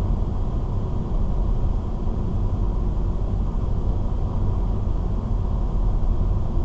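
Steady road and engine noise of a car cruising at about 80 km/h, heard from inside the cabin: a low, even rumble of tyres and engine.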